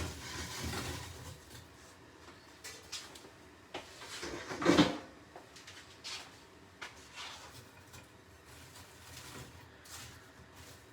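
Kitchen utensils and dishes clicking and knocking as roast potatoes are served onto a plate, with one louder clatter about five seconds in.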